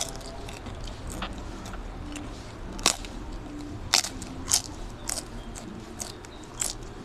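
Close-up biting and chewing of crispy cassava salbaro flatbread: a series of sharp, brittle crunches between quieter chewing. The loudest crunches come about three and four seconds in.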